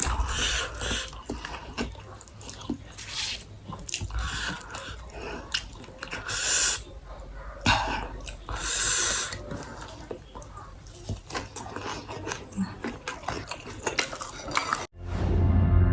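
Close-miked chewing and mouth sounds of a person eating rice with fried side dishes: irregular wet smacks, clicks and short bursts. Near the end the eating cuts off abruptly and music starts.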